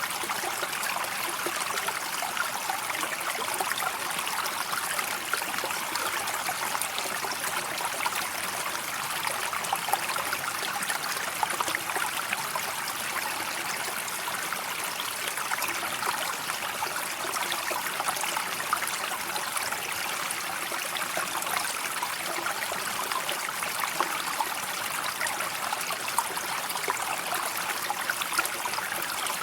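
A river or stream flowing steadily, a constant babbling rush of water with fine trickling detail.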